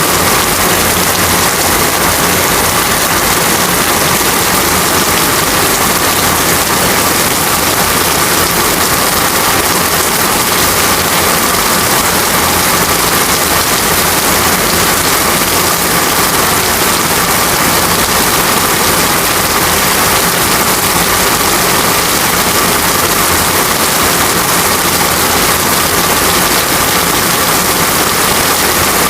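Heavy, steady rain: a dense, unbroken hiss of rainfall with no pauses or separate drops standing out.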